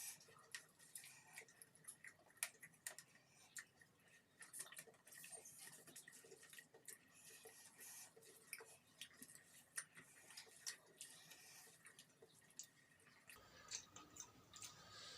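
Faint, irregular mouth clicks and smacks of someone eating rice and chicken curry, with no steady rhythm.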